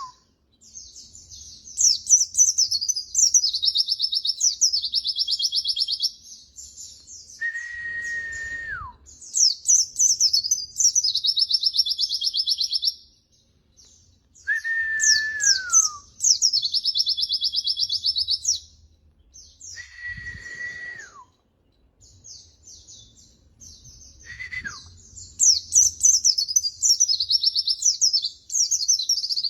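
White-eye (pleci) song: rapid, high twittering phrases a few seconds long, repeated after short pauses. Between phrases comes a lower clear whistle that holds one note and then slides down, heard four times.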